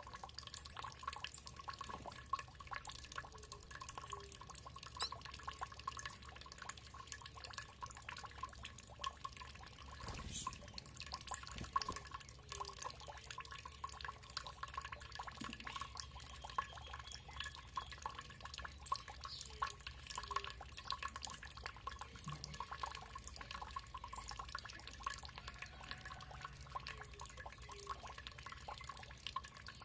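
Water trickling and dripping, a dense, even patter of small drops.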